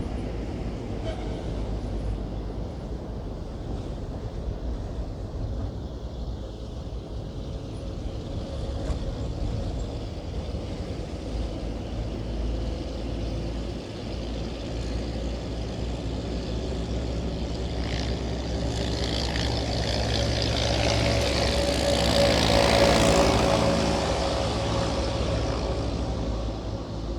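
Vehicle driving slowly up a mountain road, with a steady low engine and road rumble. About two-thirds of the way in, a louder rushing noise swells, peaks and fades over several seconds.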